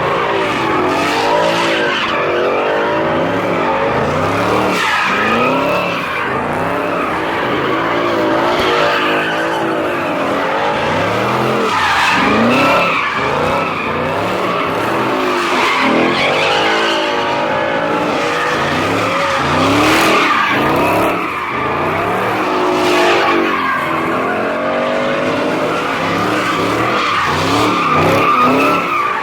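Car being drifted: its engine revving up and down over and over while the tyres screech almost without a break.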